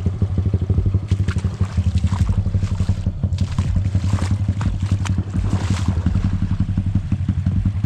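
Small pit bike engine idling steadily, with water splashing and rushing over it.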